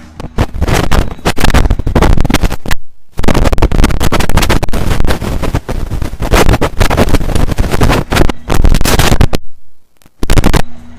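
Strong wind buffeting the microphone: loud, irregular rushing gusts that drop out briefly about three seconds in and again near the end.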